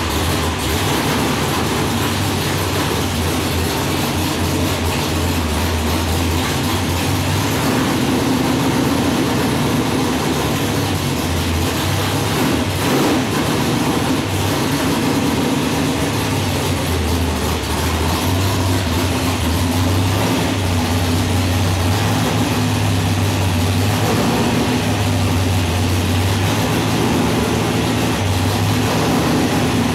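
Freshly rebuilt Ford 351 Windsor V8, stroked to 418 cubic inches, idling steadily soon after starting up.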